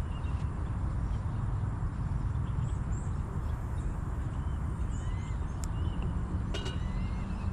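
Steady low rumble with scattered short bird chirps over it, and a sharp click near the end.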